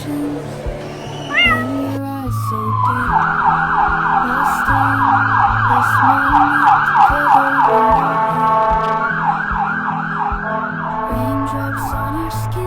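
Emergency vehicle siren in a fast yelp, its pitch sweeping up and down about three times a second, with a break in the middle and a few slower sweeps near the end. It plays over background music, after a short cat meow about a second in.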